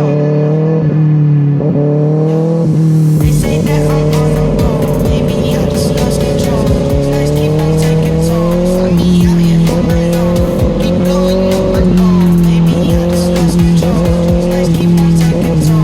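Sport motorcycle's inline-four engine, a Kawasaki ZX-6R, running at fairly steady revs while riding, its pitch easing up and down a little every few seconds. About three seconds in, a low wind rumble on the microphone joins it.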